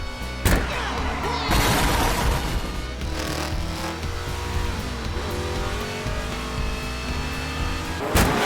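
Rock music with a steady bass line, with race cars rushing past over it several times. The loudest passes come about two seconds in and again near the end.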